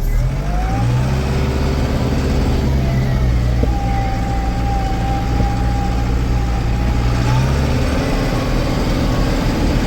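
Case 995 XL tractor's diesel engine pulling away in high range. The engine note rises in the first second, then runs steadily under load, with a thin higher whine over it for a few seconds in the middle. The engine eases to a lower note about eight seconds in.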